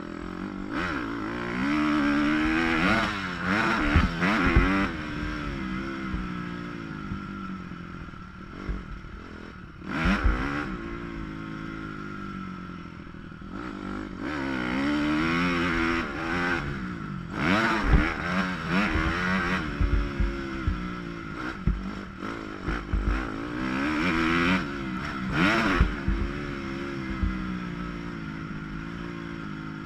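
Motocross dirt bike engine revving up and falling off again and again as it is ridden around the track, heard muffled through a GoPro waterproof housing. A few sharp thumps come through, about every six to eight seconds.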